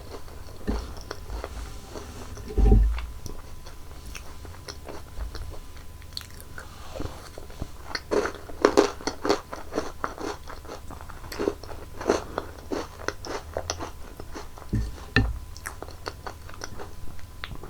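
Close-miked crunching and chewing of crunchy chocolate candies, with irregular crackly bites that come thickest around the middle. A loud low thump comes about three seconds in.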